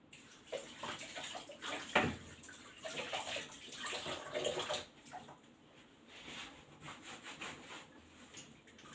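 Water splashing and scrubbing as a chopping board is washed, with a knock about two seconds in. It goes quieter after about five seconds.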